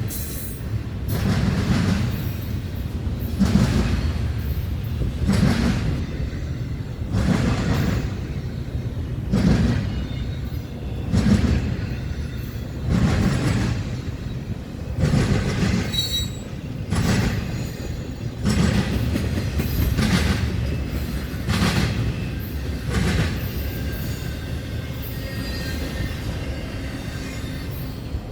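A CSX train's cars rolling past, their wheels clacking over the rail joints in a steady beat of about one clatter every two seconds, with a low rumble and a faint brief wheel squeal around the middle.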